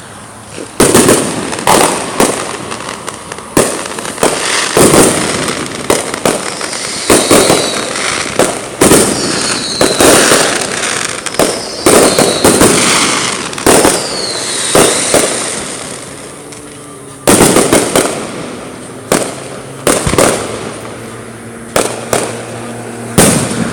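Fireworks going off in quick succession: sharp bangs about once a second with crackling between them and a few falling whistles, thinning out near the end.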